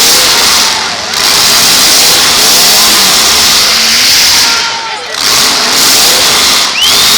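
Engines of full-size demolition derby cars revving hard and continuously, the pitch wavering as the drivers rev up and back off. There are brief dips in level about a second in and around five seconds, and a high squeal rises near the end.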